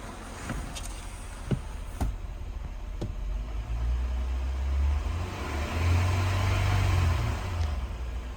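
2009 Acura TL's 3.5-litre V6 engine running. It is revved up twice over the middle few seconds, then settles back to idle. A few sharp clicks are heard in the first three seconds.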